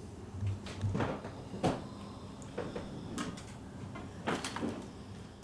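Scattered light knocks and clicks, about half a dozen over a few seconds, over a low steady background hum.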